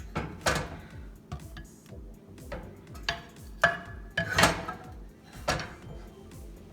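A serving utensil clinking and scraping against the curry pot and plate as chicken curry is dished out, in several sharp clinks, the loudest about three and a half to four and a half seconds in. Background music with a steady beat runs underneath.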